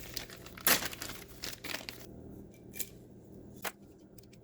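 Small parts being handled: a short loud rustle or scrape, a few softer scuffs, then two sharp light clicks.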